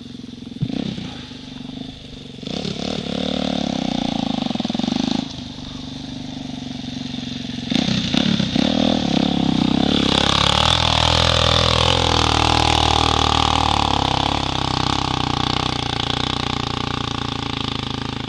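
Dirt bike engine revving: a couple of short blips, a rev lasting a few seconds, then about ten seconds under sustained throttle with the pitch rising and falling, easing off near the end.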